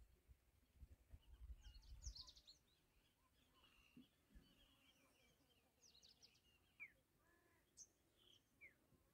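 Near silence with faint bird chirps and calls scattered through, a few short rising notes among them. A faint low rumble in the first two seconds.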